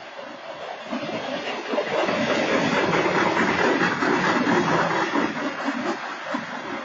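Train cars rolling past on the track, wheels clattering on the rails. The noise swells to its loudest about two seconds in and eases off near the end.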